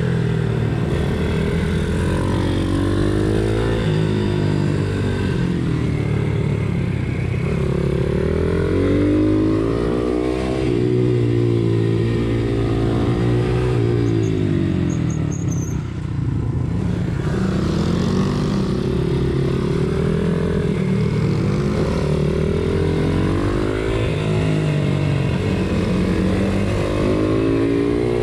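Pit bike's small single-cylinder engine racing, revving up and dropping back again and again as it is ridden through the gears and corners. Its pitch climbs and falls every few seconds and eases off briefly about halfway through.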